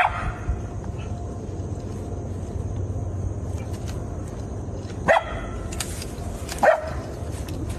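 A dog barking three times with short, sharp barks: once at the start, then twice about a second and a half apart near the end, over a steady low background hum.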